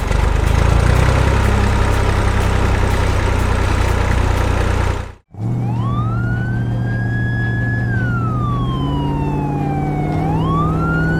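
A vehicle engine runs steadily, then cuts off abruptly about five seconds in. A wailing siren follows, rising slowly, holding, falling and rising again over a low engine hum.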